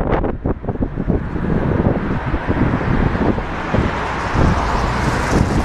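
Steady roadside traffic noise, with wind buffeting the microphone.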